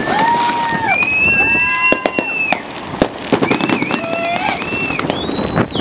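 Fireworks going off: several shrill whistles overlap, each gliding up, holding for about a second and dropping away, some of them warbling, among scattered sharp cracks and pops.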